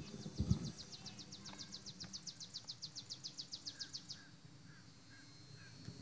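A songbird singing one long, even trill of about thirty quick high notes, which stops about four seconds in, over a steady high insect hum. A few softer, lower chirps follow, and there is a brief low rumble at the start.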